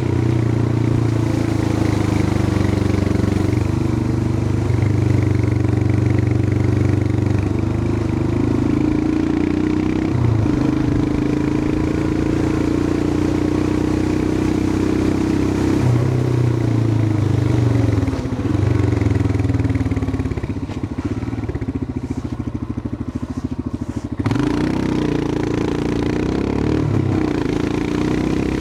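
Royal Enfield Himalayan 411's single-cylinder engine running while riding, its note rising and falling with the throttle. About twenty seconds in it drops quieter and lower as the throttle is eased off, then picks up again about four seconds later.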